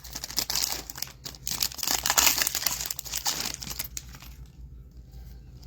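Foil wrapper of a Topps Chrome card pack crinkling as it is torn open, for about four seconds, then much quieter.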